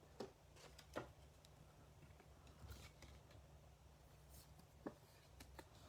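Near silence with a few faint clicks and rustles from handling trading cards and a plastic card holder.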